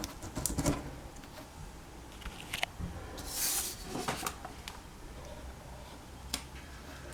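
Paper money being handled and slotted into a savings board: scattered light taps and clicks, with a short brushing rustle about three and a half seconds in.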